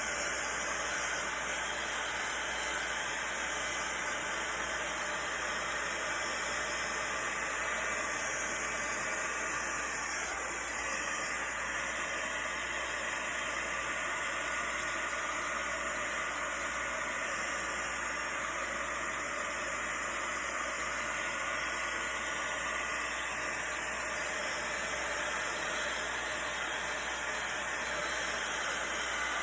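Electric heat gun blowing hot air steadily, a constant hiss with no change in speed.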